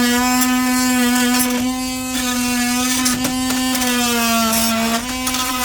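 Cordless power tool's motor running steadily under load as it cuts around a stuck screw, its pitch sagging slightly about four seconds in, then recovering.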